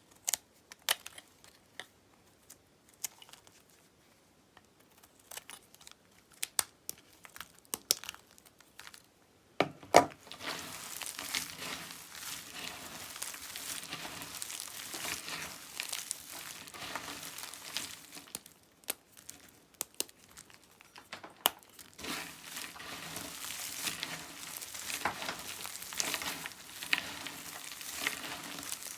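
Dry dyed bar soap being cut with a knife. Scattered light clicks and taps come first; about ten seconds in there is a sharp crack, then long runs of crisp crackling and crumbling as the blade goes through. The crackling pauses briefly about two-thirds of the way in.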